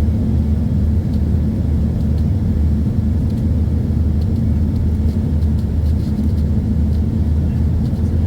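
Steady low rumble and hum inside the cabin of an Embraer E145 regional jet in flight on approach: its rear-mounted Rolls-Royce AE3007 turbofans and airflow over the fuselage.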